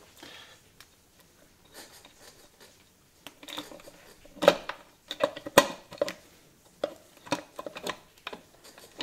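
Metal clinks and knocks of hand tools and bolts against the engine cases of a 1993 Maico 500 dirt bike as it is taken apart. The first few seconds hold only faint handling noises; from about halfway in comes a quick, irregular run of sharp clinks.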